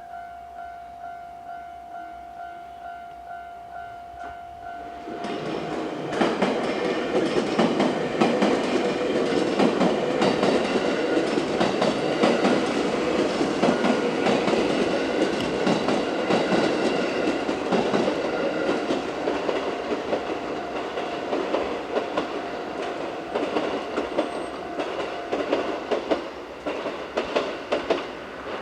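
A Japanese level-crossing warning bell dings steadily, about twice a second. About five seconds in, a six-car JR West 221 series electric train passes, its wheels clattering over the rail joints while the bell goes on underneath. Near the end the clatter thins to separate clicks as the last cars go by.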